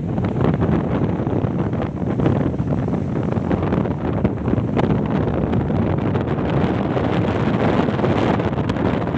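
Strong gusting wind buffeting the microphone: a loud, dense, steady rumble.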